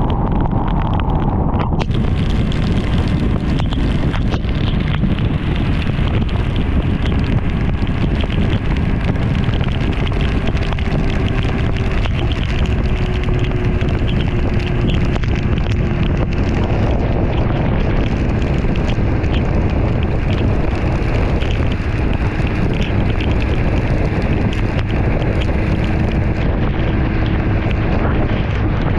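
Heavy wind rush over a helmet- or bike-mounted action camera's microphone while riding a BMW S1000RR motorcycle at speed, with the inline-four engine's note faintly underneath, slowly dropping in pitch through the second half.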